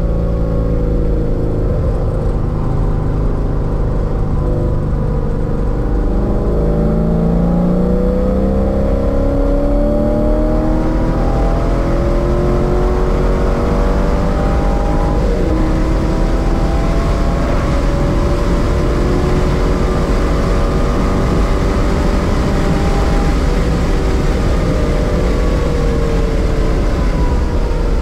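1999 Corvette C5's LS1 V8, with long-tube headers and a catless X-pipe, heard from inside the car under hard acceleration, its engine note climbing in pitch as the car gathers speed. Wind and road noise grow louder partway through.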